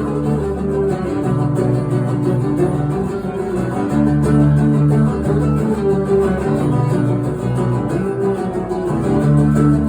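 Live acoustic band playing an instrumental passage with no singing: guitar chords ringing over sustained low notes that change about once a second.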